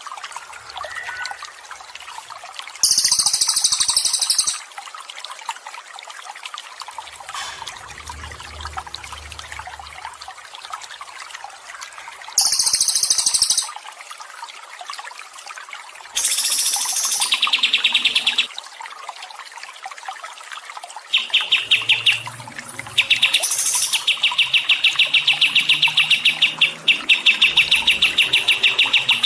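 Steady trickling, gurgling water with a songbird singing over it in bouts: short high buzzy phrases, then, from about two-thirds of the way through, a long run of fast repeated notes.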